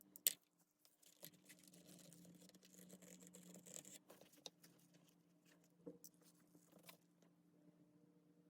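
Faint handling noises: a sharp click just after the start, then a few seconds of scratchy rustling and scraping, then a few small clicks. A faint steady low hum runs underneath.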